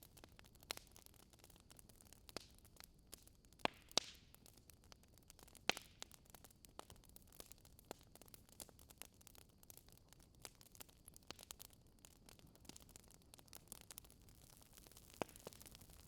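Wood fire crackling softly in a fireplace: scattered sharp pops and snaps over a faint hiss, with a few louder pops about four seconds in, near six seconds and near the end.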